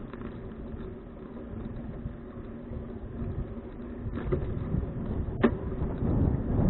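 Wind rumbling on an action camera's microphone while riding a bicycle, growing louder in the second half, with a sharp click from the bike about five and a half seconds in.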